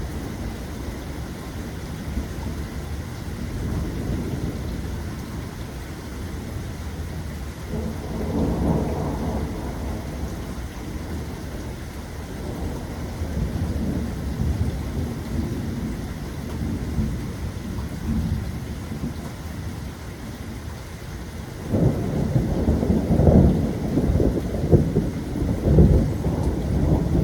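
Steady rain with rolling thunder. A swell of thunder comes about a third of the way in, and a longer, louder roll of rumbling thunder near the end.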